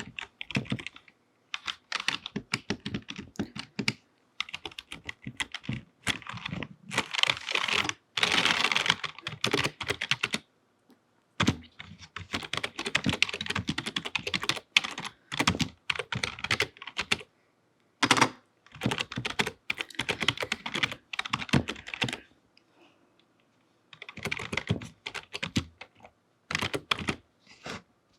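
Long fingernails typing on a computer keyboard: bursts of rapid key clicks broken by short pauses, with one longer, denser run of fast clicking about a third of the way through.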